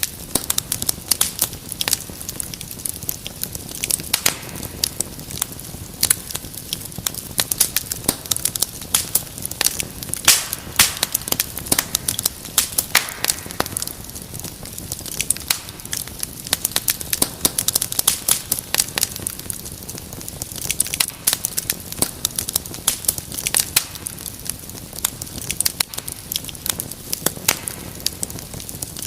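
Wood fire crackling steadily, with many irregular sharp pops and snaps over a low hiss of burning.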